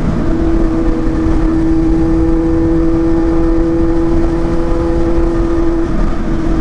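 Kawasaki Z800 inline-four engine running under way at steady, fairly high revs. It picks up just as the sound begins and drops back near the end, with wind rushing over the microphone.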